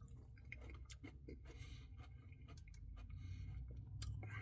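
Faint chewing and wet mouth clicks from a person eating a Blizzard, with scattered small clicks and a couple of soft noisy smacks.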